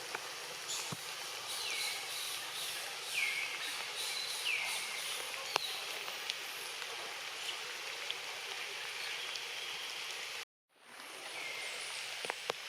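Steady rain hiss in a forest, with a few sharp drips and a short call that falls in pitch, repeated about four times. The sound cuts out completely for a moment about ten seconds in.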